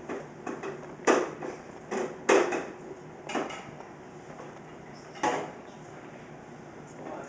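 A series of sharp knocks and clatters, about six irregular hits, the loudest a little over a second in and just after two seconds; after about five and a half seconds only faint room noise is left.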